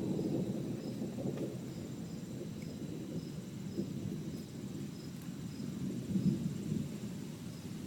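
Rolling thunder: a continuous low rumble that rises and falls, swelling about six seconds in.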